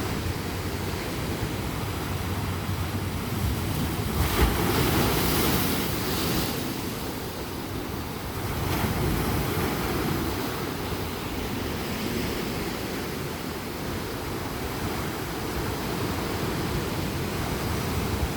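Ocean surf washing onto a beach in a continuous hiss. A louder wave breaks about four seconds in, and a smaller surge follows around nine seconds.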